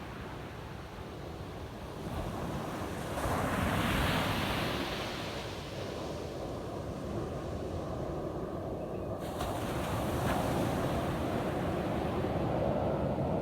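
Ocean waves breaking on a beach: a continuous surf wash with a wave crashing about three seconds in and another building near the end. Wind rumbles on the microphone underneath.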